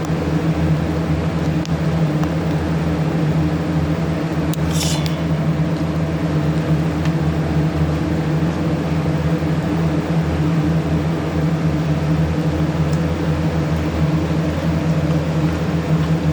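Steady machine hum with a low, even pitch, and a short rustle about five seconds in.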